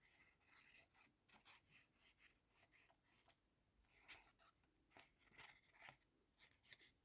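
Near silence with faint paper rustles and small clicks, from paper and craft materials being handled.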